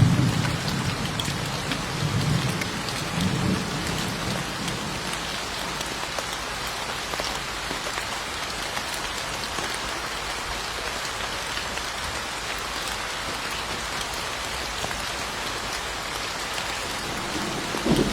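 Steady rain falling, with low rolls of thunder rumbling during the first few seconds and again at the very end.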